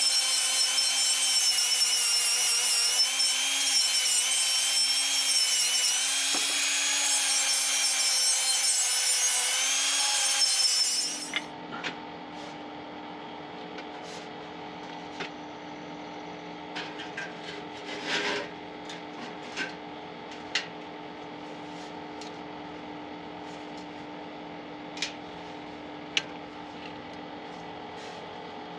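Handheld power tool, most likely with a wire brush, scrubbing soot off the exhaust where the muffler came off: a steady whine with a harsh scraping hiss for about eleven seconds, then it cuts off. After that a steady low hum remains, with a few light clicks and knocks.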